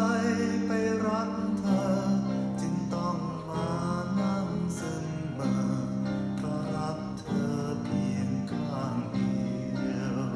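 A song with singing and guitar, played back through a Nu'Clear516 loudspeaker with 5-inch drivers.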